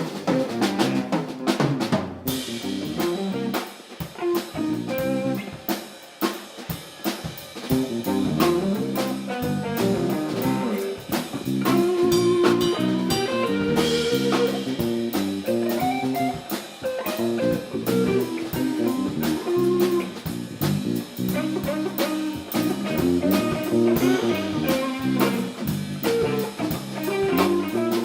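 Live band playing an instrumental funk groove, with a drum kit keeping a steady beat and electric guitar over it. It eases off briefly about four to six seconds in.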